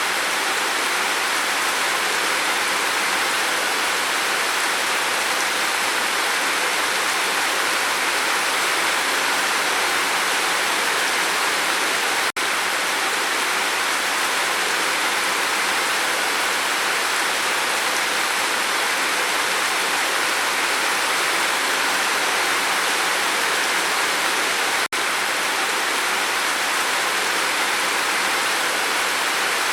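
Steady rain falling on a roof, an even hiss with no thunder, broken by two momentary dropouts about twelve seconds apart where the recording loops.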